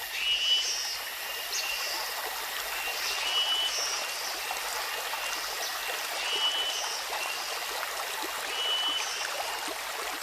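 Water flowing in a stream, a steady rushing trickle, with a high, short chirping call repeating every second or two over it.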